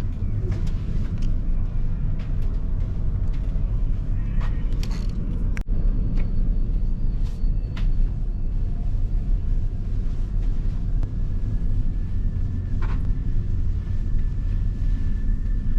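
Steady low rumble of a vehicle running, with scattered faint clicks and ticks over it.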